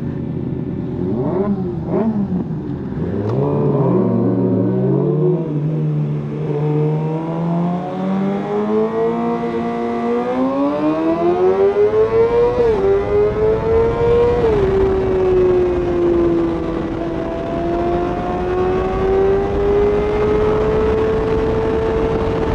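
Suzuki GSX-R inline-four sport bike engine revving briefly a few times at a standstill, then pulling away with its pitch climbing steadily through the gears. Two quick upshifts come near the middle, after which the engine settles into a steady cruise with wind noise over the microphone.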